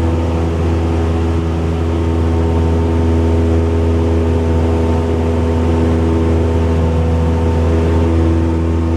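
Cessna 172's single piston engine and propeller droning steadily in flight, a constant low hum with no change in pitch or level.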